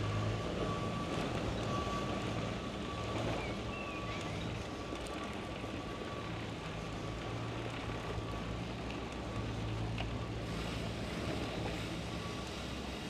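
Steady low hum with a rushing noise, and a faint high tone that comes and goes.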